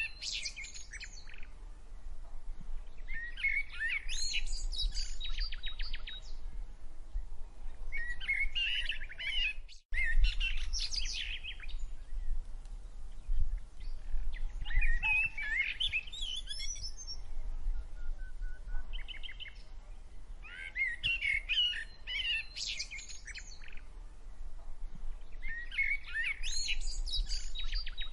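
Songbirds singing in short clusters of quick chirps that come back every few seconds, over a low steady rumble. The sound drops out briefly about ten seconds in.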